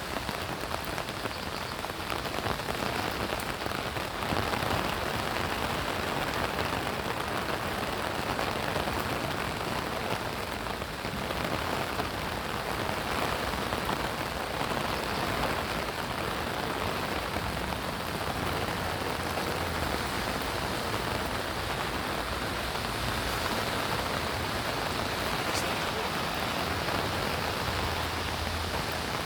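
Steady rain falling, an even wash of rain noise with no breaks.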